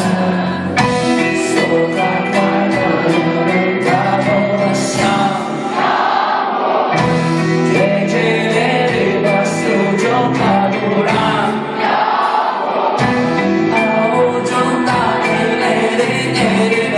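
Live band music with singing, with regular drum and cymbal strikes over sustained chords.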